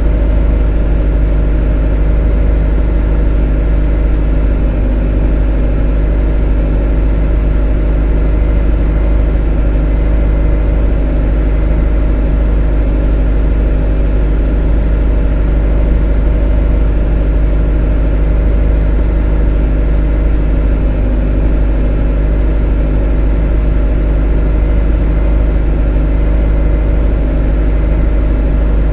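A motor running at a steady speed, making a continuous deep hum with a stack of even overtones and no change in pitch or level, played as a monotonous white-noise sound for sleep.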